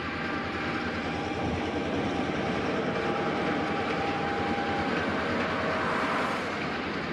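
Train sound of an EMD GP-9 diesel locomotive pulling a freight train: a steady running drone with wheel and rail noise. It swells slightly and then drops back near the end.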